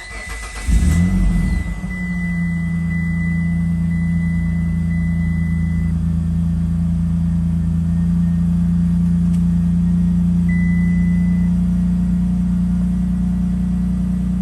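2009 Mitsubishi Outlander engine starting about a second in, then settling into a steady idle. It is the first run after an oil change, to circulate the fresh oil before the level is checked.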